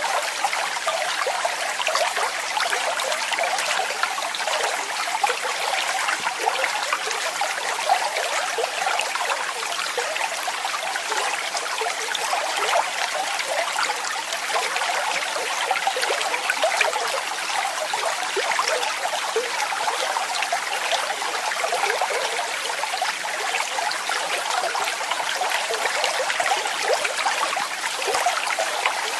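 Falling water splashing and running in a steady, even rush, with fine flickering splashes.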